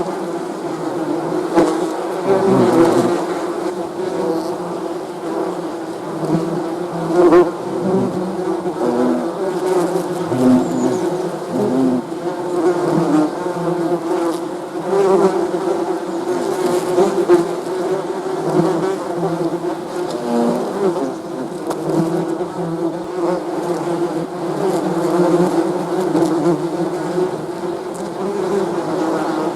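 Many bees buzzing together in a continuous, wavering drone of overlapping tones, with individual bees swelling louder now and then as they pass close.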